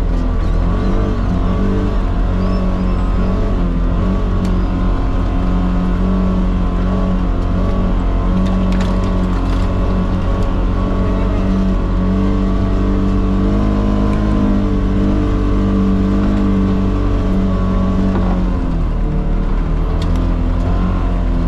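Polaris Xpedition side-by-side's engine running steadily under way, its pitch rising and falling slightly with the throttle.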